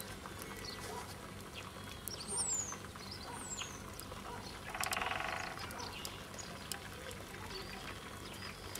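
Birds calling: a few short, thin whistles sliding down in pitch, and a short buzzy rattle about five seconds in, over faint scattered clicks.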